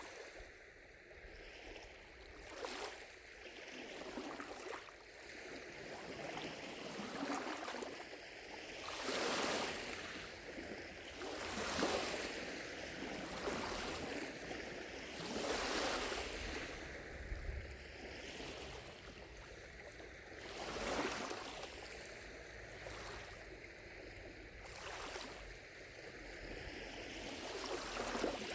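Small lake waves lapping on the shore, a soft wash every couple of seconds, a few of them louder splashes in the middle.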